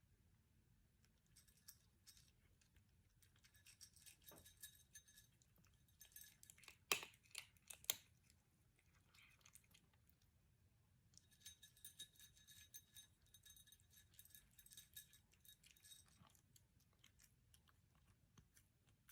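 Cat crunching dry kibble: faint rapid chewing clicks in two bouts, with two louder sharp clicks around the middle.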